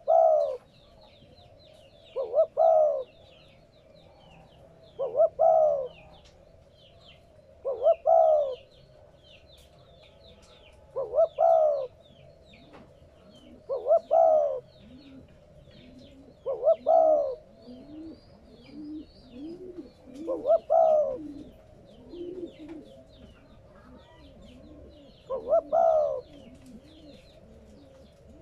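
Spotted dove cooing: a loud, repeated two-part coo about every three seconds, with a softer, lower cooing joining in about halfway through. Small birds chirp constantly in the background.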